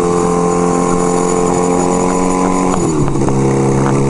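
A 1975 Kawasaki KZ400 parallel-twin engine running steadily under way, over wind noise. About three seconds in, the engine note drops and then holds at a lower pitch.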